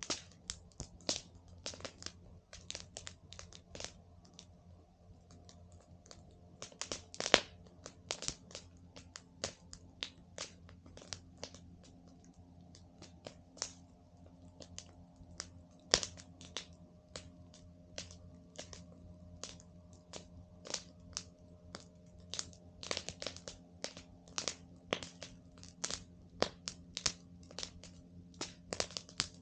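Campfire crackling: burning wood snapping in dense, irregular clicks, with a few louder pops about seven and sixteen seconds in.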